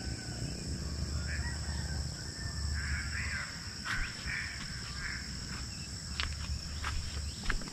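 Birds calling: a run of short, harsh calls, several in a row through the middle, over a low rumble, with a few sharp clicks near the end.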